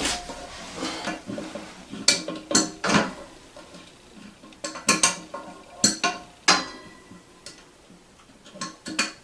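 Irregular sharp clicks and knocks of hard plastic parts being handled as the toilet fill valve's plastic nut is tightened by hand, in scattered clusters with short pauses between.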